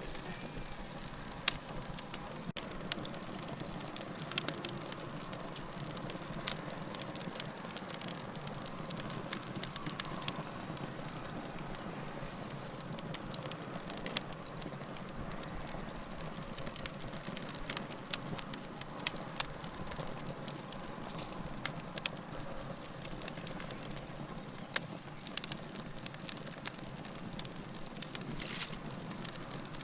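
Wood fire crackling steadily, with a soft hiss of flame under frequent sharp, irregular pops and snaps.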